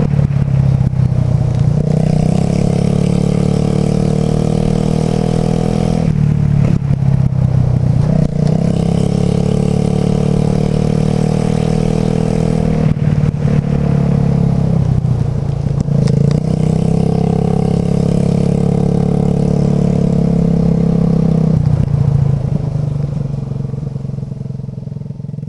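Suzuki Burgman 125 scooter's single-cylinder engine running under way. Its pitch drops and picks up again several times as the throttle is eased off and reopened, and the sound fades away near the end.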